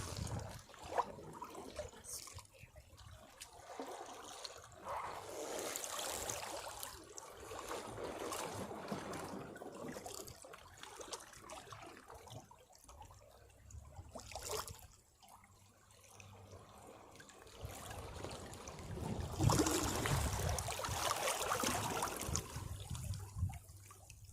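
Caribbean sea waves washing against rocks, each surge swelling and then draining back with trickling, gurgling water. The surges come every few seconds, and the biggest one arrives near the end.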